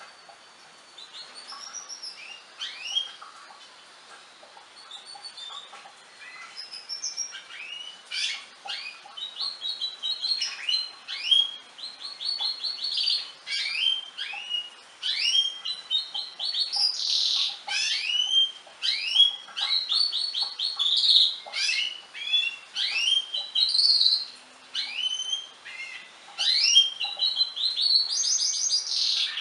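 Domestic canary singing a long, varied song of rapid trills and chirps, sparse at first and then continuous from a few seconds in.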